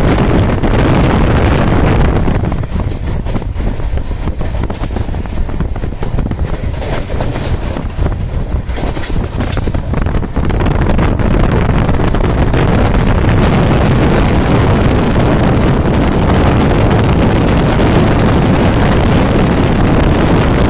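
Wind buffeting the microphone over the running rumble of a fast-moving train. It eases for several seconds from about two seconds in, then returns at full strength.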